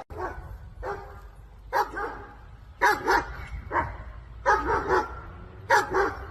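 A dog barking repeatedly, a string of short barks at about one a second, some coming in quick pairs.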